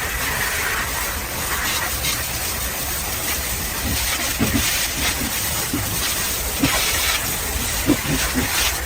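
Pressure washer spraying water, a steady hiss over a low rumble, with a few short faint chirps in the second half.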